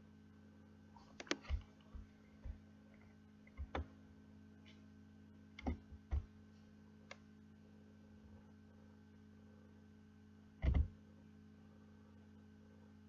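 A dozen or so irregular clicks and light knocks, the loudest near the end, over a steady low hum.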